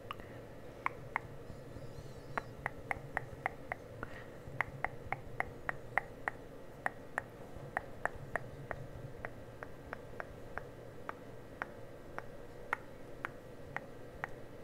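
A long run of short, sharp clicks or light taps on small objects, about two to three a second at uneven spacing, over a steady low hum.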